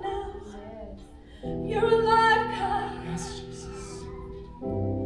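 Worship music: sustained keyboard chords, changing about a second and a half in and again near the end, with a voice singing softly over them.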